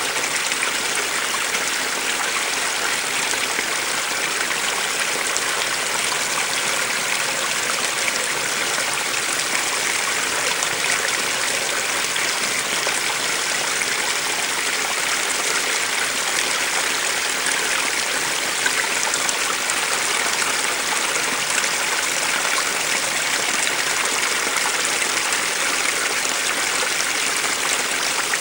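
A small stream running steadily over rocks: an even, continuous water rush.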